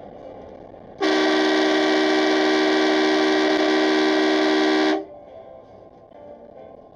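A car horn held down in one long, steady blast of about four seconds. It starts about a second in and cuts off suddenly, over low road noise.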